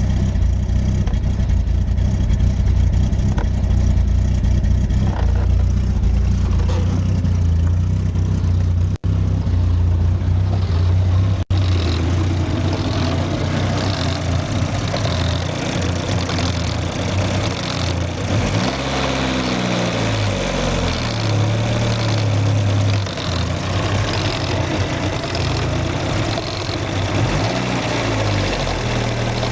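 Citroën BX 16V's four-cylinder engine idling unevenly, its idle speed wavering from about two-thirds of the way in. The uploader puts the strange injection noise down to the injection relay and the idle control actuator working irregularly.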